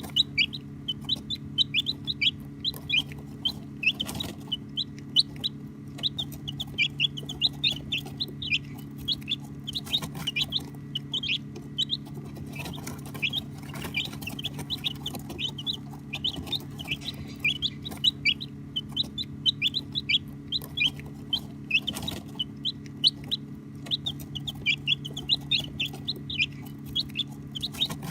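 A group of baby chicks chirping: many short, high peeps, several a second, overlapping without a break, over a steady low hum.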